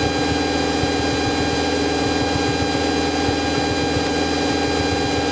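Cessna 172's piston engine and propeller droning steadily in cruise flight, at constant power with no change in pitch.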